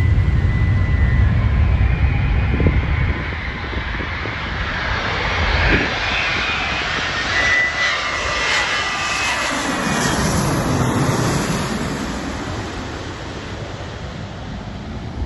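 Boeing 787-9 airliner flying past, its Rolls-Royce Trent 1000 engines giving a broad jet noise that builds to a peak about two-thirds of the way through, with a sweeping change in tone as it passes, then slowly fades.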